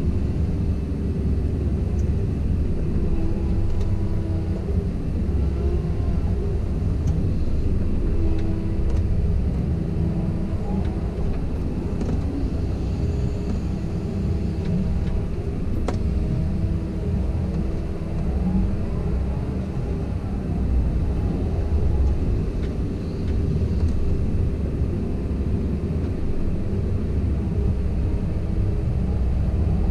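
Komatsu PC170LC-10 excavator running steadily as it works, a low engine rumble with tones that shift and glide up and down in pitch.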